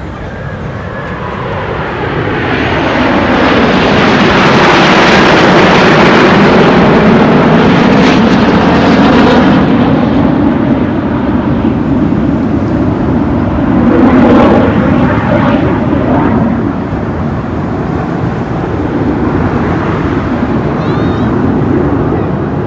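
Jet aircraft flying low overhead: a loud engine roar that swells over the first few seconds and falls in pitch as it passes, with a second loud surge about 14 seconds in.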